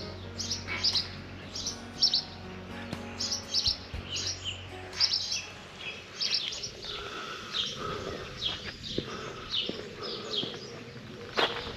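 Songbirds chirping and singing, many short high calls in quick succession. Soft background music underneath fades out in the first few seconds.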